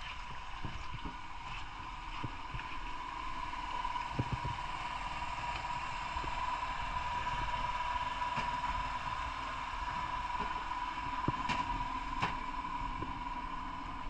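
Boat's motor running steadily with a constant high whine, and wind buffeting the microphone.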